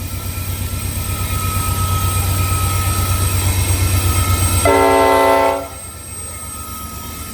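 Diesel freight locomotive approaching with its engine running steadily louder, then sounding one air-horn blast of about a second, roughly five seconds in, part of a series of horn blasts.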